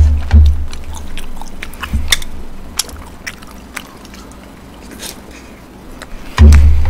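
Close-miked chewing and mouth noises of someone eating tteokbokki rice cakes, with many small wet clicks. A dull low thump comes at the very start and again near the end.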